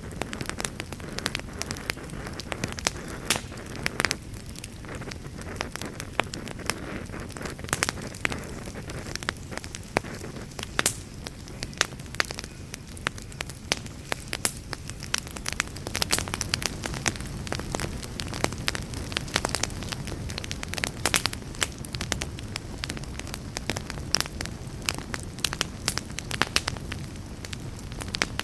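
Wood campfire crackling, with frequent irregular sharp pops and snaps over a steady low rushing noise.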